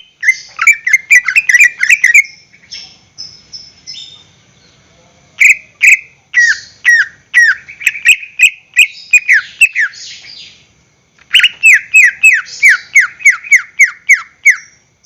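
Green leafbird (cucak ijo) singing loudly in three bouts of fast, downward-slurred whistled notes, several a second, with brief pauses between the bouts.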